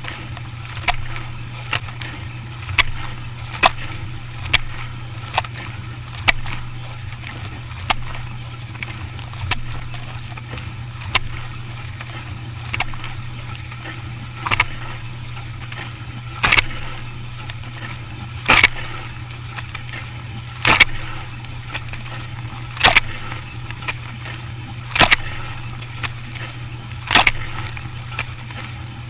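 Dishwasher running: a steady low hum with sharp regular clicks that come about once a second at first, then slow to about one every two seconds and grow louder.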